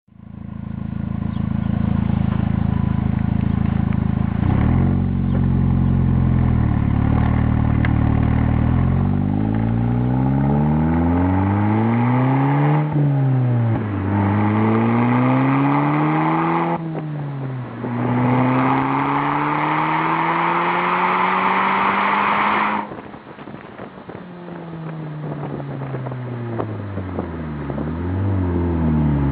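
Audi S3 Sportback's turbocharged 2.0 TFSI four-cylinder breathing through a Ragazzon stainless-steel exhaust, idling, then revved again and again, the pitch climbing and dropping with each rev. The longest, highest revs come in the middle, and the revs drop back toward idle near the end with a few more blips.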